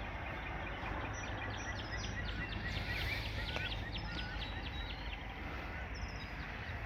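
Many birds calling at a distance, their short high chirps overlapping throughout, over a steady low outdoor rumble.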